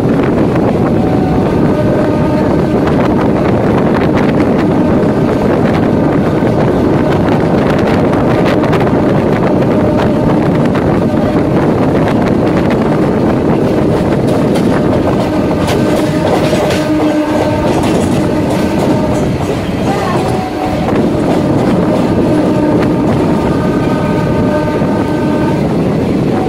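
Running noise on board a moving EMU local train: a steady rumble of wheels on rails with whining tones that come and go. A run of clicks from the rail joints comes around the middle.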